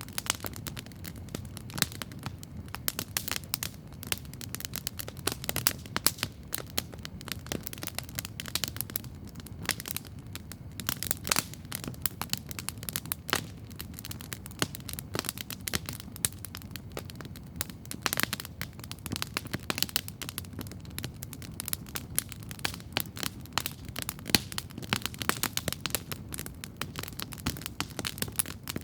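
Wood campfire crackling steadily, with dense irregular snaps and pops over a low steady rush.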